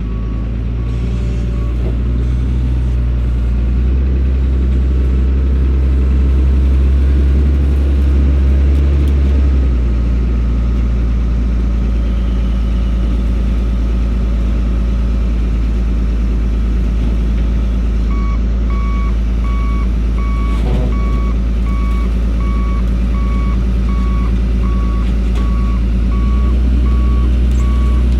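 Heavy equipment's engine running steadily under work, its note dropping about ten seconds in. A backup alarm beeps about twice a second at the very start and again from about two-thirds of the way through.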